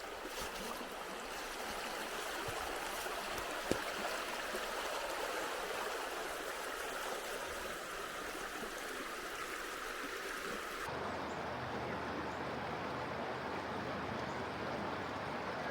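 A river flowing, a steady rush of water. About eleven seconds in, the sound changes abruptly to a duller, deeper rush. A single sharp tick comes a little under four seconds in.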